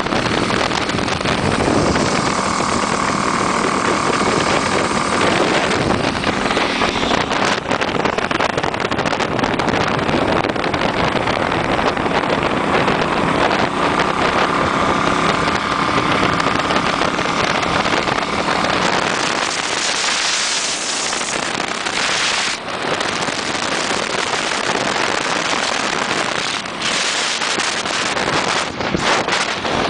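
Motorcycle and trike engines running at road speed, mostly buried under heavy wind rush on the microphone. A steady engine tone stands out for a few seconds twice, and the second half is mostly wind hiss.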